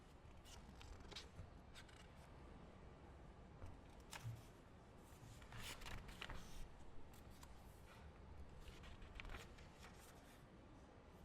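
Quiet library ambience: a low steady room hum with faint, scattered rustles and light clicks.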